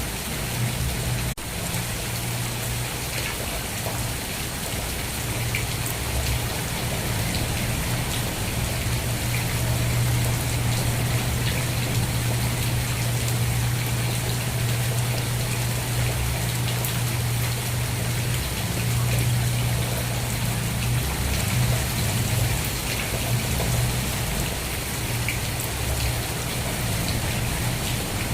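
Steady rain falling, an even hiss of drops with a strong low rumble underneath. The sound drops out for an instant about a second in.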